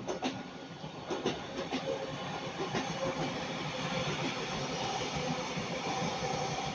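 Northern Class 331 electric multiple unit running past on the line: a steady rush of wheels on rail with a few faint clicks and a low hum, slowly growing louder.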